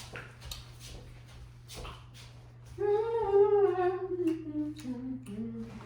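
A person humming a tune, starting about three seconds in, the melody stepping downward in pitch. A few faint clicks come before it.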